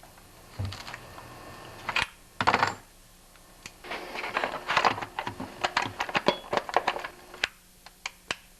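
Small metallic clicks, taps and rattles of hand tools and parts on a chainsaw's cylinder, as a compression tester is unscrewed and the spark plug put back in; a few scattered clicks, then a quick run of clicking in the middle.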